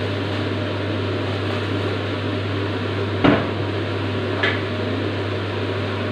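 Onions frying in oil in a pan, a steady sizzle over a constant low hum. A utensil knocks sharply against the pan about three seconds in, with a lighter click a second later.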